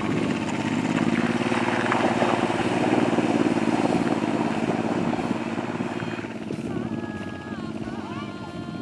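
Motorcycle engine running steadily. A melody of background music fades in after about six seconds.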